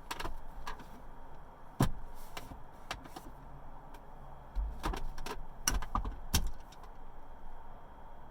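Hands and forearms knocking and slapping against a flat wooden dummy made from a 2x10 board: about ten sharp, irregular strikes, the loudest about two seconds in and a quick cluster near the middle, stopping about seven seconds in.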